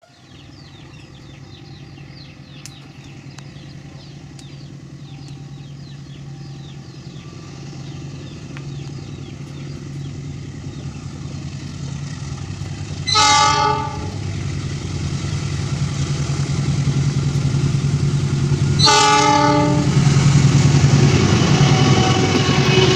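Diesel locomotive approaching, its engine hum growing steadily louder. It sounds its horn in two short blasts about halfway through and again some five seconds later. Wheel and rail noise builds near the end as it draws close.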